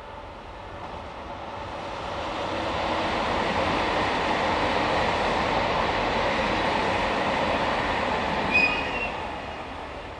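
A train passing close by on the tracks: its running noise swells up over several seconds, holds, then fades away, with a brief high wheel squeal near the end.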